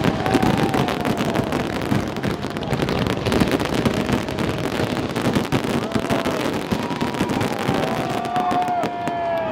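Fireworks finale barrage: a dense, unbroken run of bangs and crackling from many shells bursting at once.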